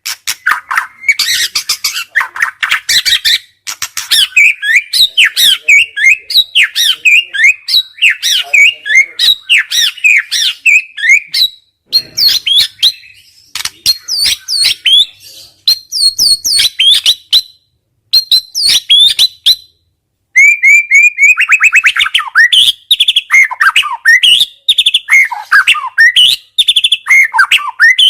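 Murai batu (white-rumped shama) singing loud, rapid-fire song ('nembak'): fast runs of varied chips, trills and sharp whistles, broken by a few short pauses midway.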